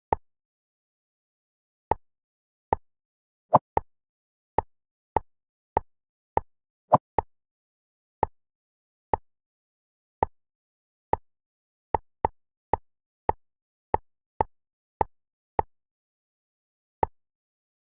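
Short pop sounds of jigsaw pieces snapping into place, about two dozen at irregular intervals, all alike, with dead silence between them.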